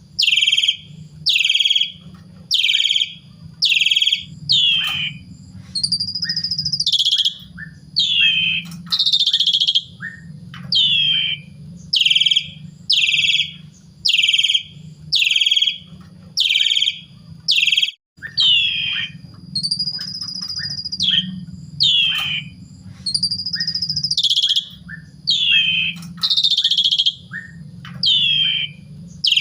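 Asian pied starling (jalak suren) singing a loud run of short, falling whistled notes, about one and a half a second, broken now and then by a longer drawn-out whistle. A steady low hum runs underneath.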